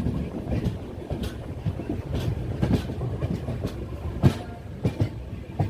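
Passenger express train running on the track: a steady low rumble with irregular clicks and knocks from the wheels over rail joints, the loudest knock about four seconds in.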